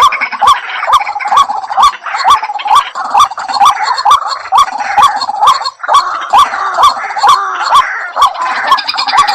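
White-breasted waterhen calling: a long, even run of short rising notes, about two to three a second, with a brief break about halfway through.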